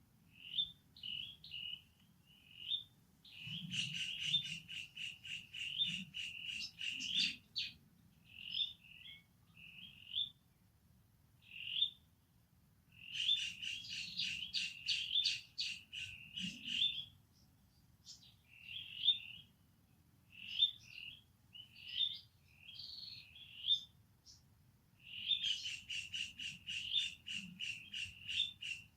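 High-pitched animal chirping calls, coming in three long runs of rapid chirps at about seven a second, with scattered single chirps between.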